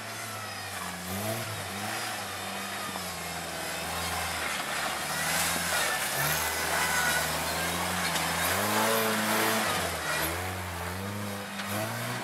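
Lifted off-road Jeep's engine revving up and down again and again as it crawls and climbs a dirt obstacle under load.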